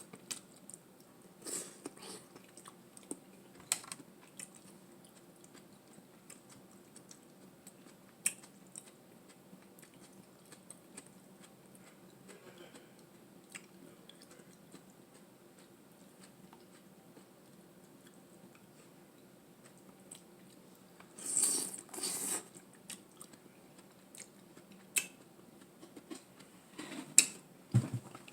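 A person eating, with quiet chewing and scattered small mouth and food clicks. Two louder bursts of noise come a little after two-thirds of the way through, followed by a few sharp ticks near the end.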